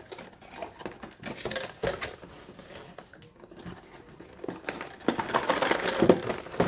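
A cardboard box being opened and its packed contents handled: scattered taps, clicks and crinkling rustles, busier and louder in the last couple of seconds.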